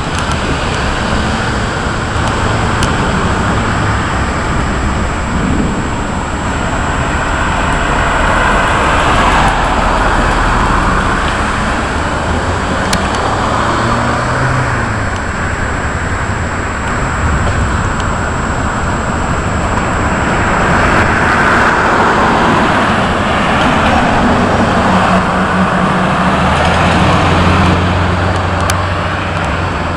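Steady rushing noise of road traffic outdoors during a thunderstorm, swelling twice as vehicles pass, with a low engine hum rising and fading near the middle and again near the end.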